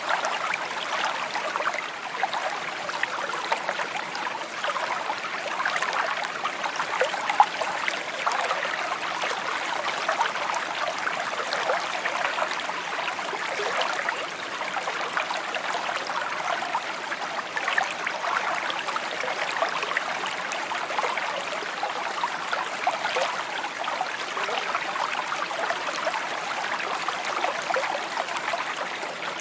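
A small stream babbling and trickling over stones, a steady splashy rush with many small bright plinks and gurgles.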